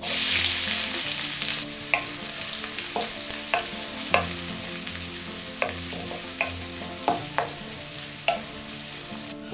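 Chopped onion, garlic and fresh chilies hitting hot vegetable oil in a stainless steel pan: a loud sizzle at the start that settles into steady frying. The wooden spoon stirring them taps and scrapes against the metal pan again and again.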